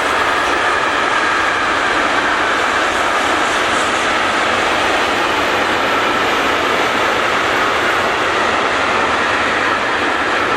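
A train passing close by: a loud, steady rolling noise of wheels on the rails.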